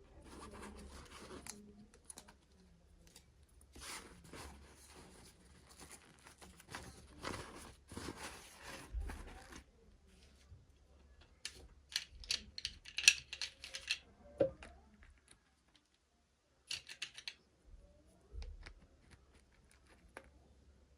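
Hands opening toy packaging: plastic wrapping rustling and tearing in strokes, then a quick run of sharp clicks and snips.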